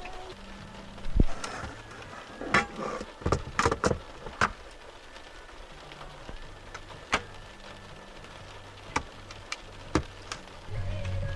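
Faint steady rain under scattered sharp knocks and clicks: a thump about a second in, a quick cluster between two and four and a half seconds, then single clicks every second or two.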